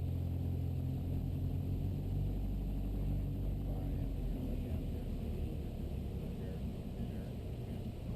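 Cabin sound of the Mooney M20E's four-cylinder piston engine running with a steady low drone. About four seconds in the drone fades, leaving a rough rushing rumble, consistent with power coming back on short final for landing.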